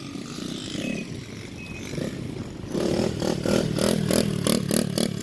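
Small dirt bike engine running, growing louder about three seconds in as the bike comes close, with an even pulsing beat.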